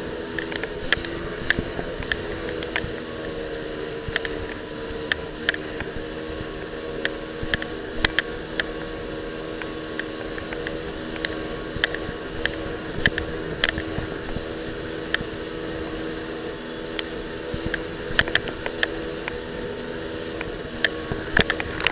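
Jet ski engine running at a steady speed, with frequent sharp irregular clicks and knocks from the action camera rattling in its loose mount on the rider's life vest.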